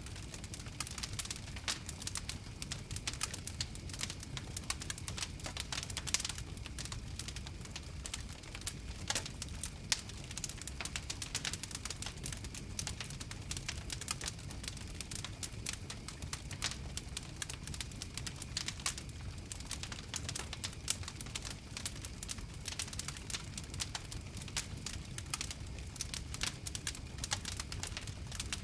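Campfire crackling: dense, irregular pops and snaps over a steady low rumble of the flames.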